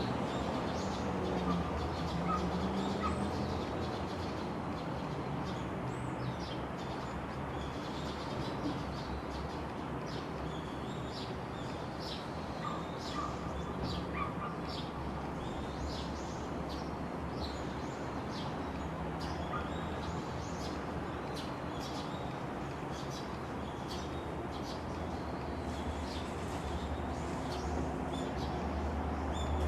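Small birds chirping, many short high calls throughout, over a steady low rumble.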